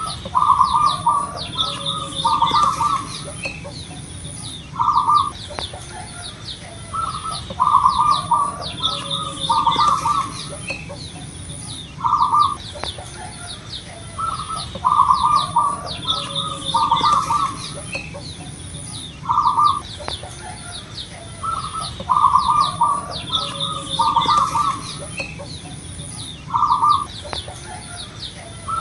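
Zebra dove (perkutut) cooing in repeated phrases of short, rapid notes, a new phrase every couple of seconds. Behind it are fainter high chirps and a steady, pulsing very high buzz.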